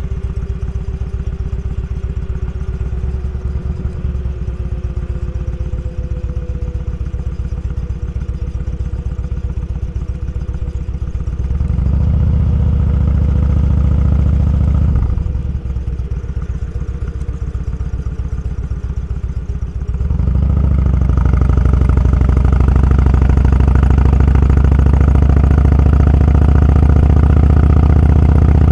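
Motorcycle engine running on the road, steady at first, then louder about twelve seconds in, easing back around fifteen seconds, and louder again from about twenty seconds on, holding there.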